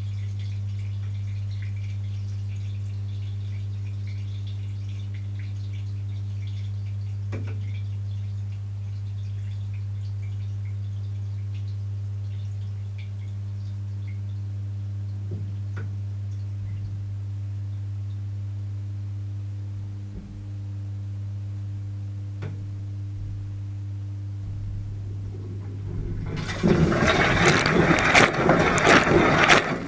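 Siemens dishwasher running, heard from inside: a steady low motor hum with faint occasional clicks. About 26 seconds in, water starts spraying loudly through the wash cabin.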